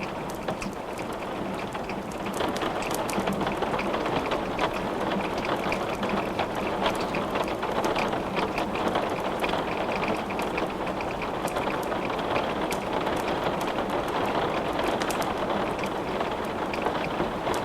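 Steady rain falling, a dense even hiss with scattered sharp ticks throughout. It gets a little louder about two seconds in.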